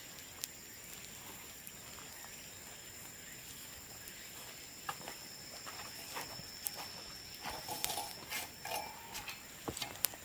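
Bamboo bonfire crackling, with scattered sharp pops that grow busier about eight seconds in, over a steady high-pitched tone.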